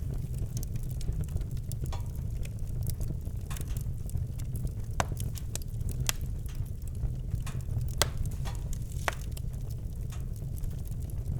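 Campfire crackling, with irregular sharp pops of burning wood over a steady low rumble; a few louder pops stand out about halfway through and again near the end.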